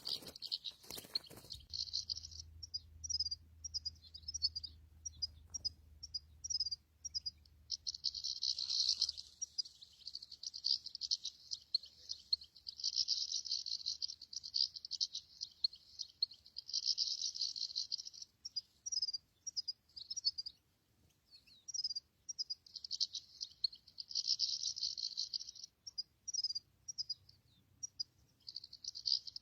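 European goldfinch singing: rapid, high, tinkling twitters in runs lasting a few seconds, broken by strings of short separate chirps. There is one sharp knock about a second in.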